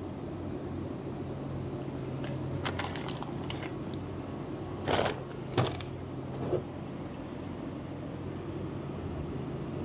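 Steady low machine hum, with a few light clicks and then three short knocks or clatters around five to six and a half seconds in.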